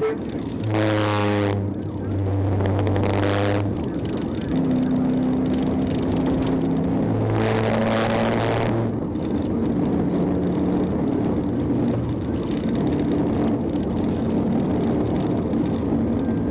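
Steady engine and road noise of a pursuing patrol car, heard from inside, with a horn sounding three times: two blasts close together near the start and a longer one about seven seconds in.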